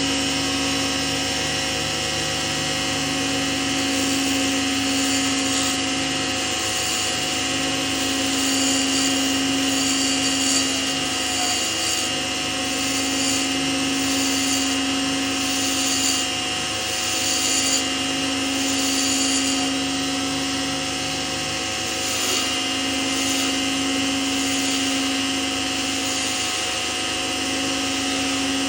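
Lathe motor running steadily, with a higher hiss that comes and goes every second or two.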